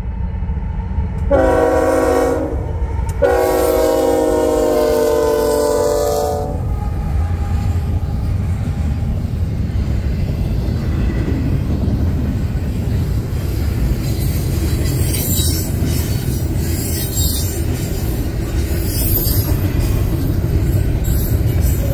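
Freight locomotive air horn sounding a short blast, then a long one, as a fast double-stack container train nears a grade crossing. The horn gives way to the steady rumble and clatter of loaded well cars rolling past, with a few short, high wheel squeals in the second half.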